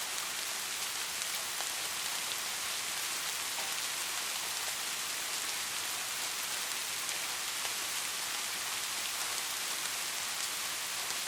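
Steady rain: an even, dense hiss of falling rain, sprinkled with the fine ticks of individual drops, without thunder.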